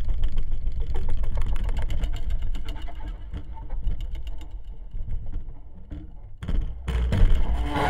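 Rumbling, crackling sound effect: a heavy low rumble laced with rapid clicks, easing off in the middle and surging louder near the end.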